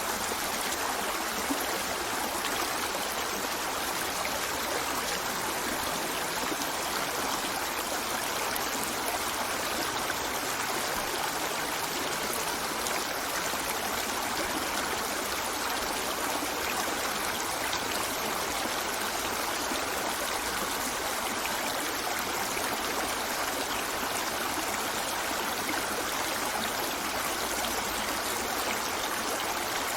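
A river flowing over rocks, a steady rushing and babbling with no change in level.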